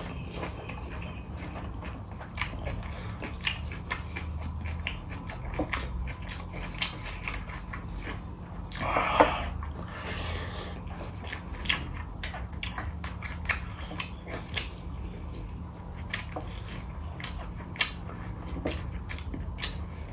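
Close-up eating sounds of a person chewing rice and curry eaten by hand, with many short mouth clicks throughout. A brief louder noisy burst comes about nine seconds in.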